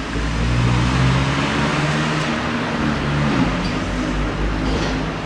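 A motor vehicle driving past, engine drone and tyre noise swelling over the first second and then slowly fading.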